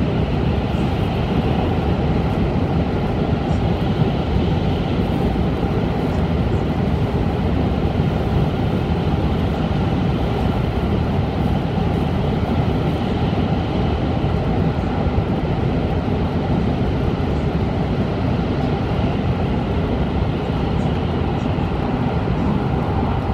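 Steady running noise inside the passenger cabin of an N700-series Shinkansen at speed: a loud, even rumble that does not change.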